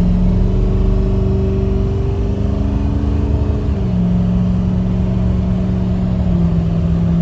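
Freshly rebuilt Ford Powerstroke diesel pulling under part throttle, heard from inside the cab. Its pitch climbs slowly, then drops about four seconds in as the transmission shifts up, and changes again near the end.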